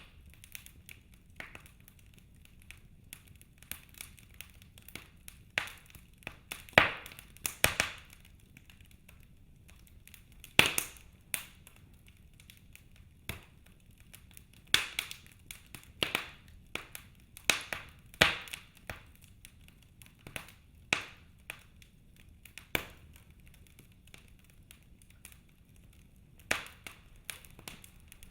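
Wood fire crackling in a fireplace: irregular sharp pops and snaps, a few of them much louder than the rest.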